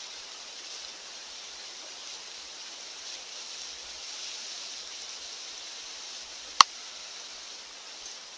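Steady mountain wind, an even rushing hiss with no gusts. About two-thirds of the way in a single sharp, loud click cuts through it.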